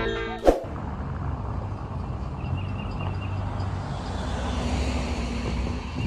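Intro music cuts off with a sharp click about half a second in, leaving a steady low vehicle rumble with a few faint high chirps over it.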